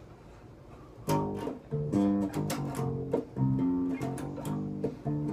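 Guitar strumming chords, starting about a second in with a series of rhythmic chord strikes.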